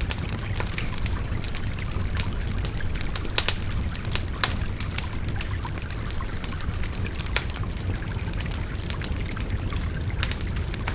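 Wood fire crackling with frequent sharp pops over the steady rushing of a babbling river. The loudest pops come about three and a half seconds in.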